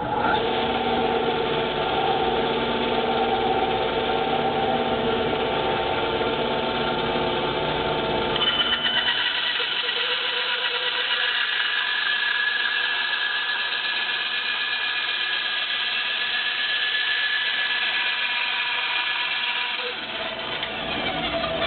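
Electric power tool running steadily while cutting a wooden ring; about eight seconds in its pitch changes, the low part falling away and a higher whine coming in.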